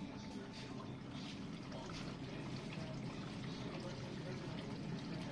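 GE dishwasher running its wash cycle: water spraying and sloshing inside the tub over a steady pump hum.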